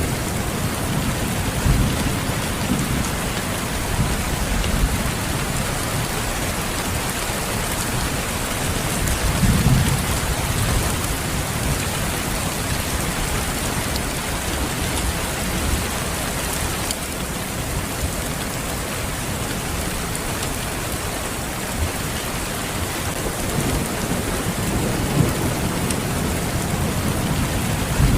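Steady heavy rain falling, with low rumbles of thunder swelling a few times, near the start, about ten seconds in, and near the end.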